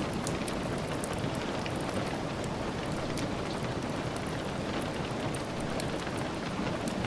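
Steady rain mixed with a crackling wood fire: an even, unbroken hiss with many small, sharp ticks and pops scattered through it.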